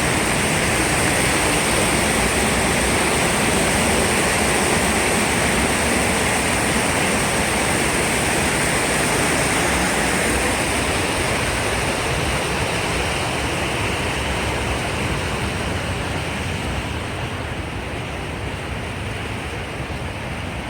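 Waterfall: water rushing steadily, getting gradually quieter in its upper range near the end.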